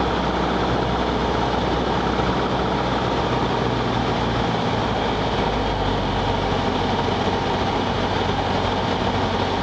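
Cabin noise of a small propeller aircraft: engine and propeller running steadily during the landing rollout, with the low rumble changing about halfway through.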